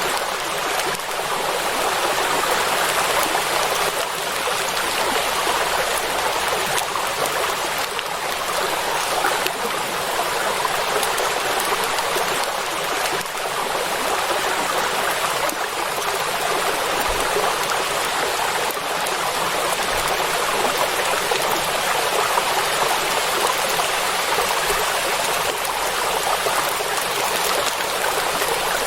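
Steady heavy rain falling on a lake's surface: a dense, even hiss with no thunder.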